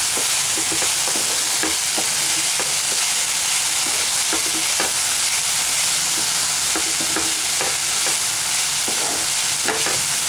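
Chopped banana flower and potato frying in oil in a non-stick pan with a steady sizzle, while a wooden spatula stirs through them, giving irregular scrapes and soft knocks against the pan.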